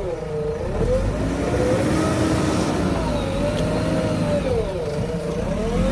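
JCB backhoe loader's diesel engine working, its pitch rising and falling as it revs, with two sharp dips and recoveries near the start and about five seconds in.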